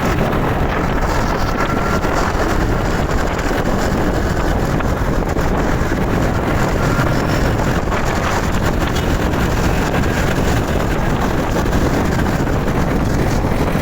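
Wind rushing over the microphone of a moving motorbike, with engine and road noise underneath.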